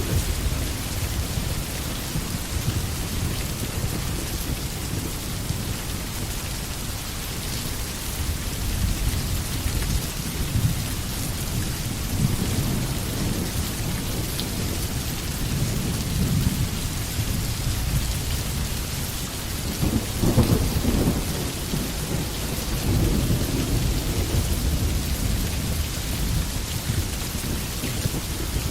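Steady rain falling in a forest, with a continuous low rumble under it that swells about two-thirds of the way through.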